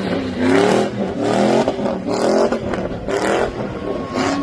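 Truck engine revved hard again and again, its pitch climbing with each rev, about four or five times.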